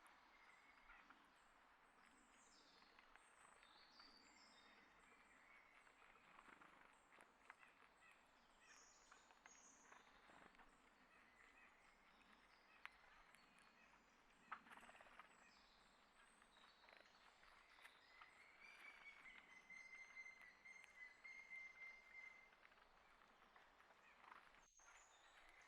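Faint outdoor ambience with small birds chirping on and off, including one longer steady trill a little past the middle, and scattered light ticks and scuffs.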